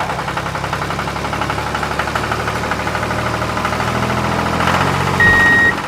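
Engine idling with a fast, steady knocking beat. A short high beep sounds near the end.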